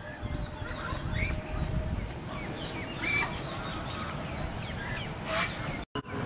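Birds calling at a pond: a string of short high chirps, several falling in pitch, with louder harsh calls about three and five seconds in, over a low rumble. The sound drops out for a moment near the end.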